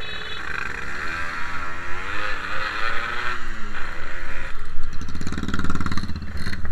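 Yamaha RX-King 135cc two-stroke single-cylinder motorcycle engine running under way, its pitch rising and falling with the throttle. It revs up louder about two-thirds of the way in.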